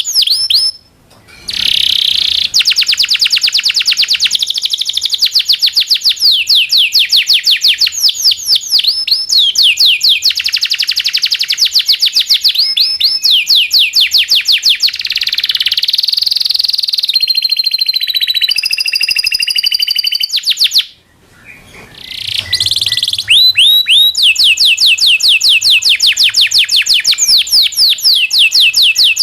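Local domestic canary singing a long song of fast rolled trills, each roll a rapid run of repeated falling notes, with a few held, wavering whistled notes in the middle. The song breaks off briefly twice, about a second in and again about three-quarters through.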